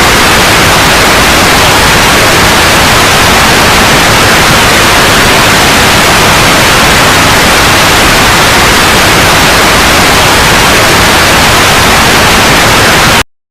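Loud, steady white noise, hissing evenly across the whole range, that cuts off abruptly near the end.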